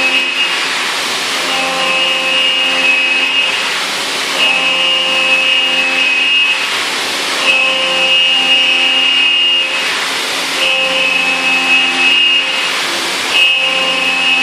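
CNC mill trochoidal-milling 6082 aluminium with a 3-flute endmill at 8000 rpm, 20 mm deep. Under a steady rushing noise, a pitched cutting whine comes in for about two seconds and drops away, about every three seconds, as the cutter loops into and out of the cut.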